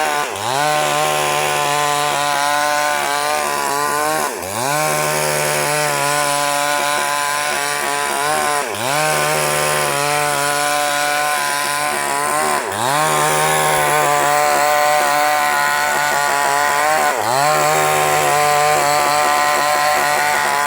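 Two-stroke chainsaw running at high revs while ripping a sengon log lengthwise. Its engine note drops sharply and climbs back about every four seconds.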